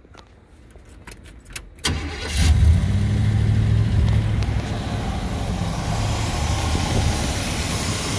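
Chevrolet 402 big-block V8 starting: a few clicks, then it catches about two seconds in with a short rise in revs and settles into a steady idle.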